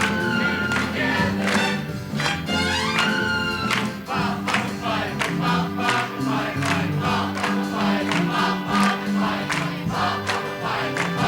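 Choir singing over a band, with a steady beat.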